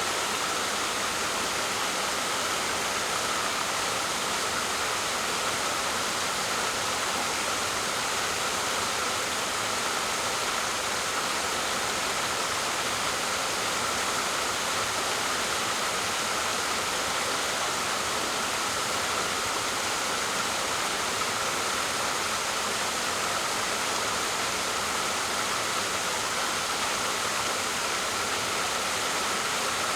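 Waterfall pouring: a steady, unbroken rush of falling water with a slight hiss.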